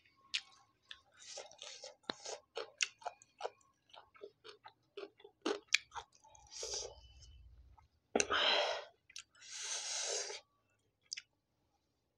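Close-miked chewing of a mouthful of rice and curry: a run of wet mouth clicks and smacks, followed in the second half by a few longer breathy hisses.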